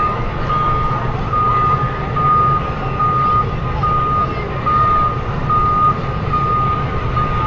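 A truck's reversing alarm beeping: one steady pitch, on and off a little faster than once a second, over the low sound of the engine running.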